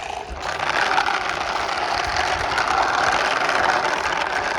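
Tractor engine running, a loud steady rushing noise that swells about half a second in.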